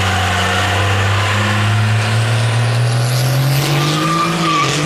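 Cummins 12-valve diesel truck doing a burnout: the engine is held at high revs with the tyres spinning in a steady hiss, and its pitch climbs slowly in the second half.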